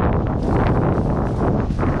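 Wind buffeting the microphone during a fast run down a powder slope, with surges of snow hiss from the turns.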